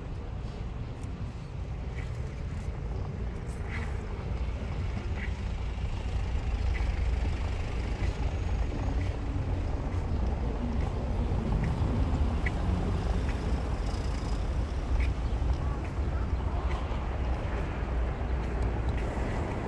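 Car driving: steady low engine and road noise that grows a little louder about six seconds in, with faint scattered clicks.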